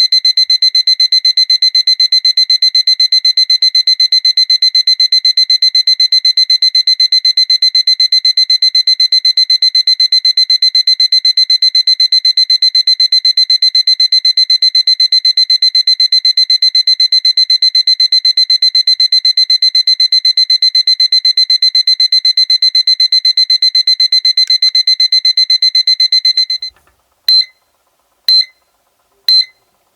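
Seiko alarm clock's electronic alarm sounding: a loud, high-pitched, very rapid beeping. Near the end it changes to single short beeps about once a second.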